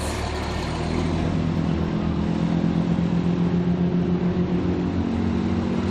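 Rally truck's diesel engine running steadily at an even, low pitch.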